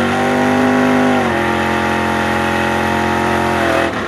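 An engine held at steady high revs after revving up, its pitch dropping slightly just over a second in, then fading out.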